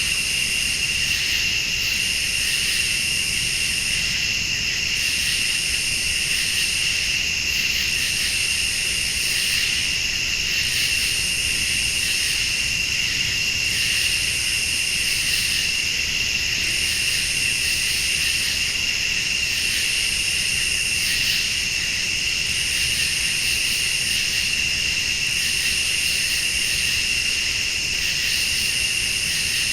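Night chorus of crickets and late-summer insects: a steady shrill trilling, with a higher-pitched insect call pulsing on and off about every two seconds.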